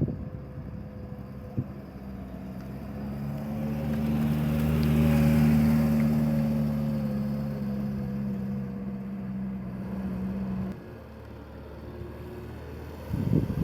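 A car engine running at a steady speed as the vehicle drives past, growing louder and then fading. It cuts off suddenly about three-quarters of the way through, and a brief louder noise follows near the end.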